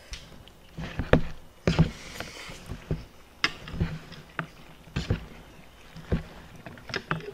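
Close-up eating sounds: irregular wet smacks and clicks of chewing and mouth noises.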